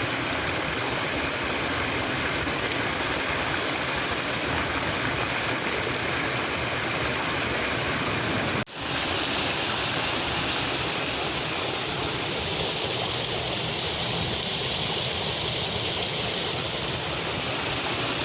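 Creek water rushing steadily, an even hiss of flowing water, with a brief break about halfway through.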